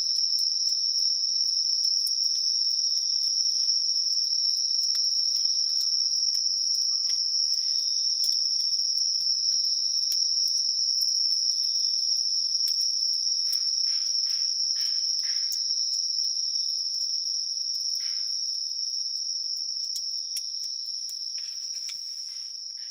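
Crickets chirring in one continuous high trill, with scattered sharp crackles and pops from a wood campfire. The whole sound fades out over the last few seconds.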